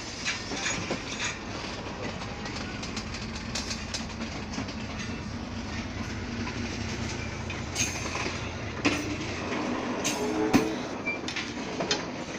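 Train carriage running along the track, heard from an open door or window: a steady low rumble with the wheels clacking over the rails. There are several sharper clacks in the last few seconds.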